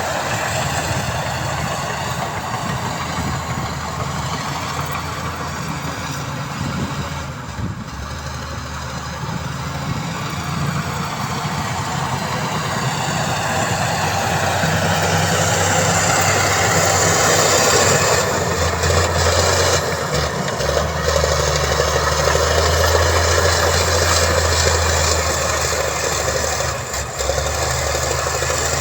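Heavy diesel engine of earthmoving machinery running steadily, growing louder and harsher from about the middle on.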